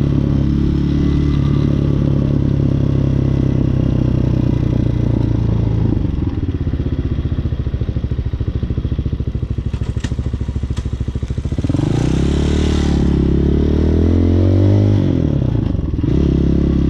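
Hawk 250 dual-sport motorcycle's single-cylinder engine running at steady cruising revs, then easing to low revs for several seconds with a couple of sharp clicks. It revs up again with rising pitch as it accelerates, and settles back to a steady run near the end.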